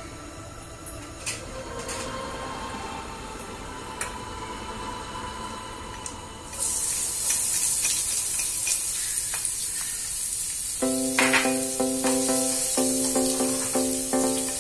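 Minced garlic and red chilies dropped into hot cooking oil in a wok, sizzling suddenly and loudly about halfway through and frying steadily after that. Background music comes in near the end.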